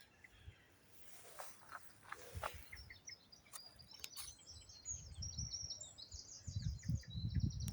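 A songbird singing a fast run of short, high chirps, starting about three and a half seconds in and going on to the end, faint against low rumbling on the microphone in the last few seconds.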